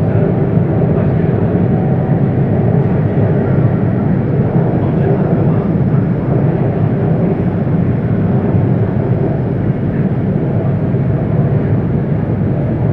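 CRRC Sifang Type A metro train running, heard from inside the passenger car: a steady, loud rumble of wheels on rail and traction gear.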